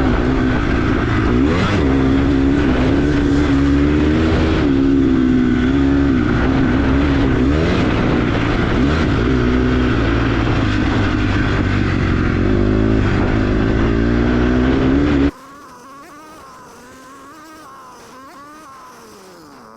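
Dirt bike engine revving hard under way, its pitch climbing and dropping with throttle and gear changes. About fifteen seconds in the sound drops off abruptly to a much fainter engine, still rising and falling in pitch.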